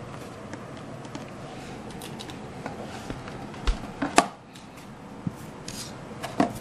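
Scattered small clicks and taps of hands handling and cutting craft materials while building a model ship, over a steady low hiss, with a few sharper clicks past the middle and near the end.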